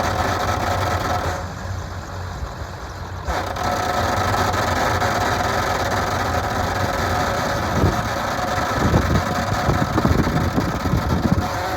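A 1997 Ford F350's 7.3L V8 turbo-diesel engine idling steadily. The sound drops in level for about two seconds starting a second and a half in, and uneven low rumbling joins it near the end.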